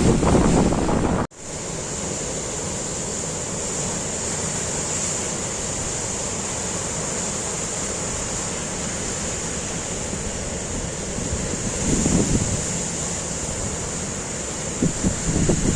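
Storm wind and waves surging in a harbour, with gusts buffeting the microphone. The sound drops out abruptly about a second in, then runs on as a steady rush, with stronger gusts near the end.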